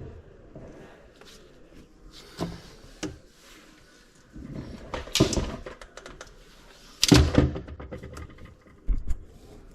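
Irregular knocks and clatter of objects being handled, a handful of separate sharp knocks with the loudest cluster about seven seconds in.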